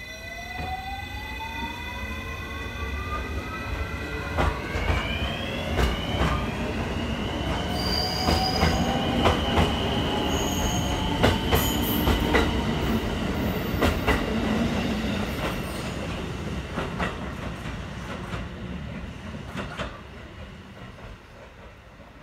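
JR West 223 series electric train pulling away from a station: its inverter whine climbs in pitch in steps over the first several seconds as it accelerates, then holds steady. Wheels clack over rail joints as the cars pass, and the sound fades as the train moves off.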